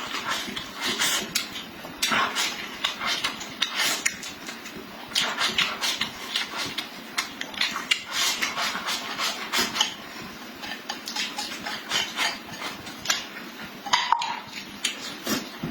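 Close-up sounds of a person eating: chewing and lip-smacking in quick, irregular wet clicks, with no break.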